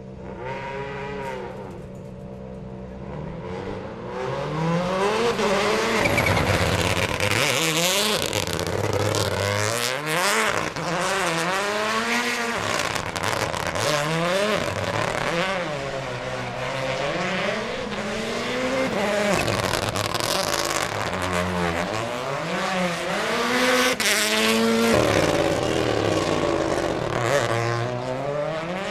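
Toyota GR Yaris Rally1 car's 1.6-litre turbocharged four-cylinder engine revving hard, its pitch climbing and dropping again and again through gear changes. It starts fairly quiet and grows louder over the first few seconds.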